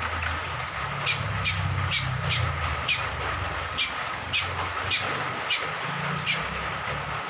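Cucak kombok (kecial kombok), a small honeyeater, giving short, sharp, high calls that drop in pitch, repeated about twice a second, over a steady background rumble and hiss.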